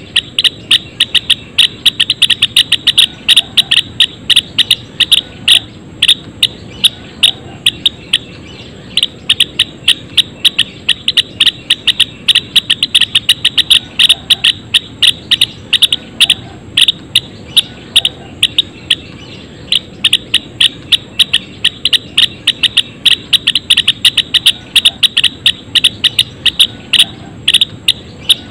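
Java sparrows in a colony cage giving a steady stream of short, sharp chip calls, several a second and overlapping.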